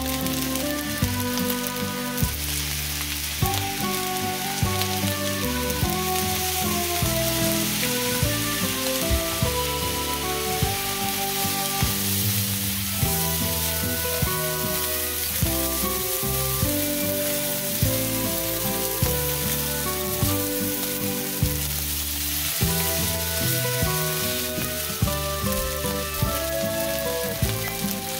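Egg fried rice sizzling in a hot pan as it is stirred and turned with a silicone spatula. Background music with steady notes and a regular beat plays over the frying.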